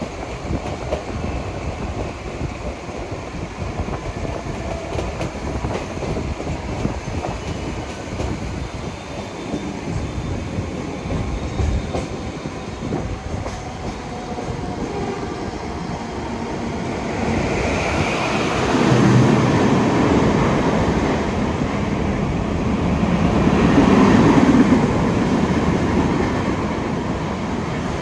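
Mumbai suburban local train, an electric multiple unit, running along the track, heard from aboard: a steady rumble and rattle of wheels on rails. It grows louder twice in the second half, about eighteen seconds in and again about twenty-four seconds in.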